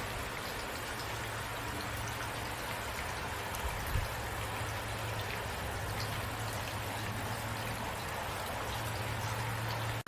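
Steady rain falling, an even hiss with scattered individual drop ticks, over a low steady hum. A single soft thump sounds about four seconds in.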